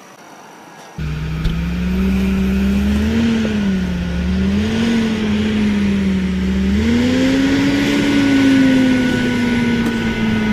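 Tractor engine revving, its pitch rising and falling several times; it starts abruptly about a second in.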